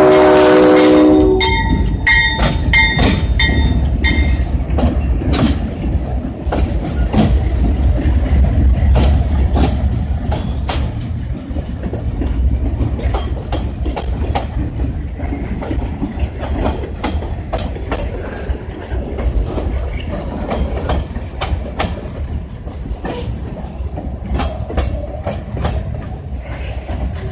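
Diesel train horn ending about a second in, followed briefly by a repeated ringing tone. Then a train rolls past with a steady low rumble and wheels clicking over rail joints.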